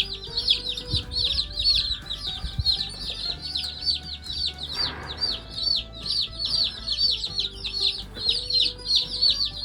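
A brood of day-old Red Ranger and Cornish cross meat chicks peeping nonstop, a dense stream of high, falling peeps about three or four a second.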